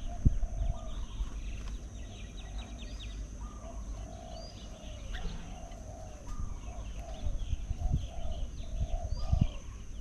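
Birds calling: a steady series of short, low, clucking calls, about two a second, with higher chirps above them. A few short low thumps come through, near the start and late on.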